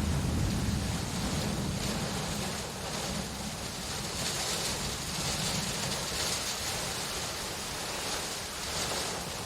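Steady rain with a low thunder rumble that fades over the first few seconds, leaving the even hiss of rainfall.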